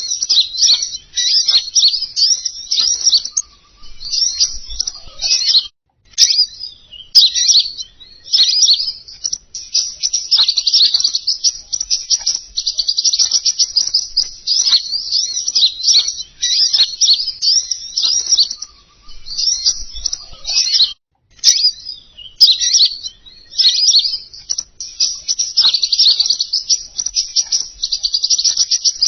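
Recorded song of the kingkonin bird played as a lure call: fast, high, twittering chirps in long unbroken runs. The song breaks off briefly twice, about a fifth of the way in and about two-thirds through, each time with a sharp click or two.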